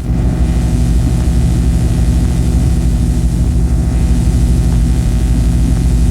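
Harsh noise music: a loud, dense low drone built of many steady pitched layers, with a rapid grainy flutter in the bass.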